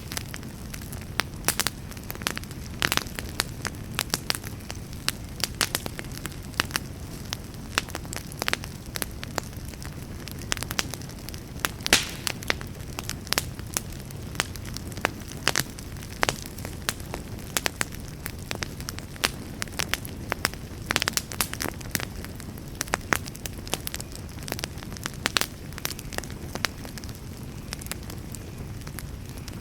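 Wood fire burning in a fireplace: a steady low rumble under frequent irregular crackles and pops, a few louder snaps among them.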